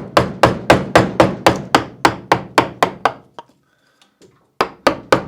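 Mallet striking a carving gouge into wood: about four sharp knocks a second, pausing briefly after about three seconds, then resuming near the end.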